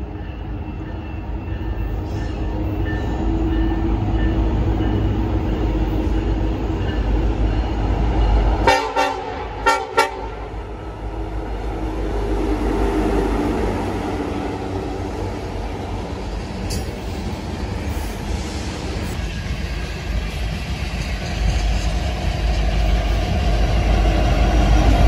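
BNSF diesel freight locomotives and loaded coal hoppers rumbling past, with a short two-part air horn blast, one longer sound then a brief one, about nine seconds in. The engine and wheel rumble swells again near the end as a mid-train locomotive passes close.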